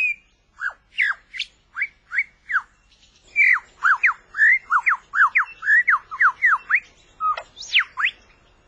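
Male superb lyrebird singing: a fast run of loud, clear whistled notes, each sweeping down or up in pitch, ending in two louder high sweeping notes.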